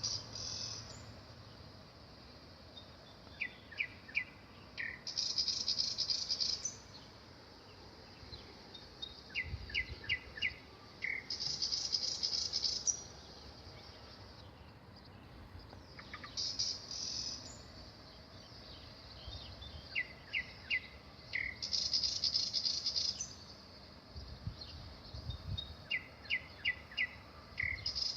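Nightingale singing in repeated phrases about every six seconds, each a few sharp separate notes followed by a loud, fast rattling trill.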